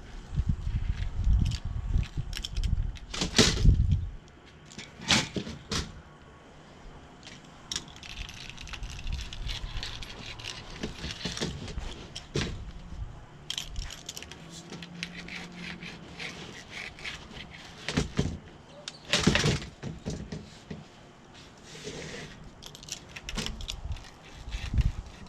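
Scattered clicks, knocks and light scrapes of hands and tools working on a screen door's frame, screen and rubber spline, with a few louder knocks.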